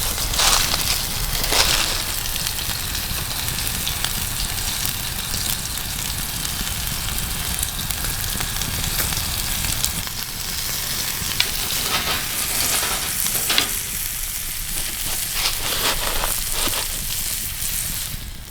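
Bacon-wrapped burger sizzling in a campfire burger maker over an open fire: a steady fat sizzle with sharp crackles and pops coming through here and there.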